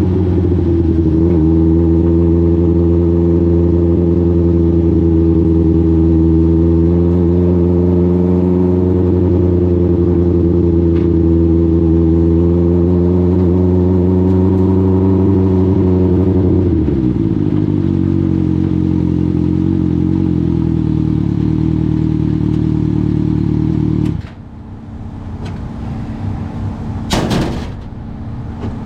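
A dwarf car's Suzuki GSX-R1000 motorcycle engine running at steady, moderate revs, its note stepping down to a lower pitch about two-thirds of the way through. Near the end the engine sound drops away suddenly, and a couple of sharp clacks follow.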